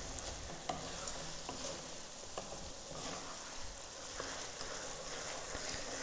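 Okra sizzling in oil in an aluminium pot as a wooden spatula stirs it, with occasional light scrapes and taps of the spatula against the pot.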